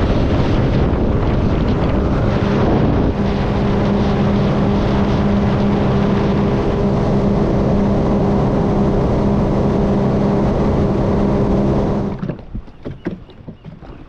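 A Sea-Doo jet ski running steadily at speed, a constant engine drone under rushing water and wind noise. The sound drops away suddenly about two seconds before the end, leaving only quieter scattered knocks.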